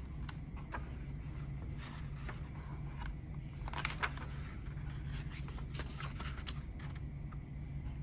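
Pages of a picture book being turned by hand: several short rustles and scrapes of paper, with light taps from handling the book.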